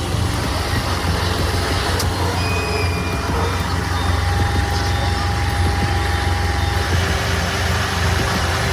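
Heavy truck engine running steadily with a deep low drone.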